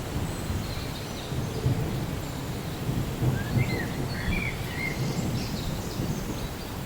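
Rainy-day nature ambience: a steady low rumble of thunder under rain, with a few short bird chirps in the middle.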